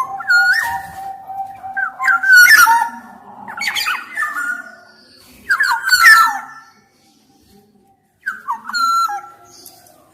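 Black-naped oriole (kepodang emas) singing in separate phrases of loud fluty whistles mixed with harsh, squawking notes, with a pause of about a second and a half before a last phrase near the end.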